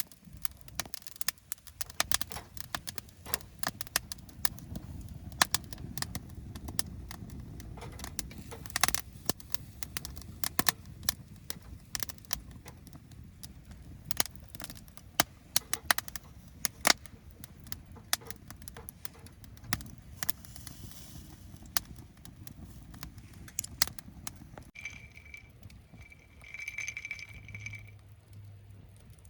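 Wood campfire crackling, with frequent sharp pops and snaps over a low steady rumble. Near the end a brief high steady tone joins in twice.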